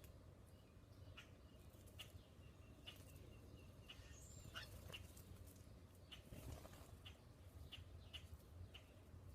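Faint, short bird chirps at irregular intervals, with one longer falling call about four and a half seconds in, over a low steady background rumble.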